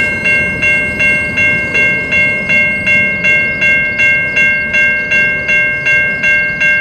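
Level crossing warning bell ringing rapidly and evenly, about three strokes a second, each ding fading before the next, which signals that the crossing is active while a train is on or near it. A low rumble from the train lies beneath.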